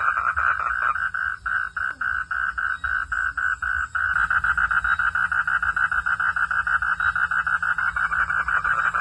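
Frogs calling at night in a fast train of pulses, about five a second at first, then denser and fuller from about four seconds in.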